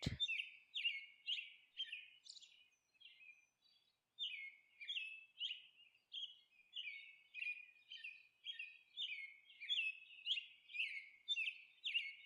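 Birds chirping faintly: a run of short, high, falling chirps about two a second, with a pause of a couple of seconds near the start before they resume.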